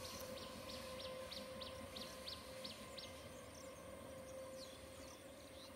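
A small bird calling a quick run of about ten short, high, down-slurred notes, roughly three a second, that stops about three seconds in. Under it is a faint, steady hum-like tone and low outdoor background noise.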